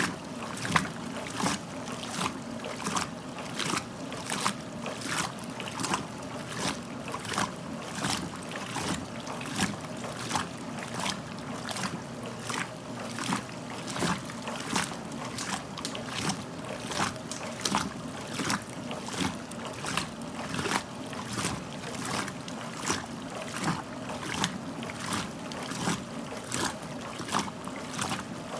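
1969 Westinghouse LAJ 535A3 washing machine mid-cycle: water sloshing and splashing in a steady rhythm, about one splash every 0.7 s, over the steady hum of the motor.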